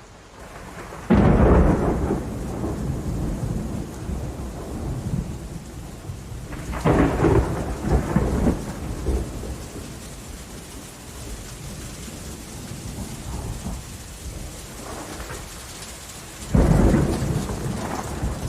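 Rainstorm: steady rain falling, broken by three sudden claps of thunder, about a second in, about seven seconds in and near the end, each dying away into a low rumble over a few seconds.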